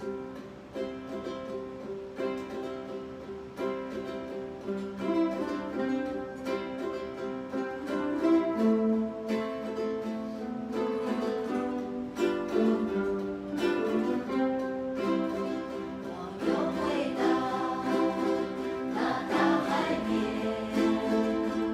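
Ukulele ensemble playing the song, with plucked and strummed notes carrying the melody. Voices join in singing for the last few seconds.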